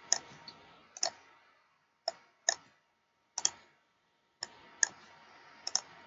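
Computer mouse clicks, sharp and short, about ten of them, several coming in quick pairs, spaced roughly a second apart.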